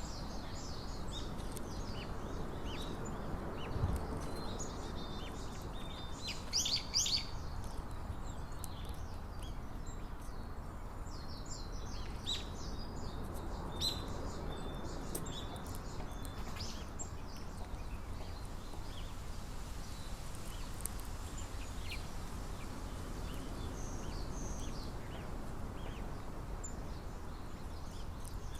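Small birds chirping in short, high calls scattered throughout, with a quick run of notes about seven seconds in, over a steady low hum of outdoor background noise.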